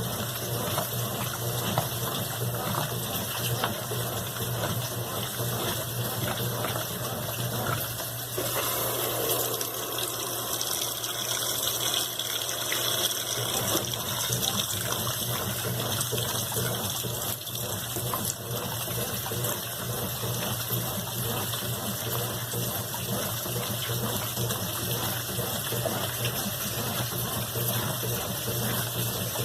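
Brastemp BWQ 24 washing machine with water gushing through it over a steady low electrical hum from a pump or valve. The rush of water grows fuller for a few seconds from about eight seconds in.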